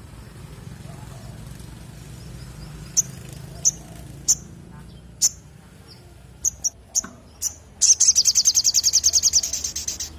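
Spiderhunter (sogon) calling: single sharp, high chirps spaced about half a second to a second apart, then near the end a fast run of rapid repeated notes, about ten a second, over a low steady hum.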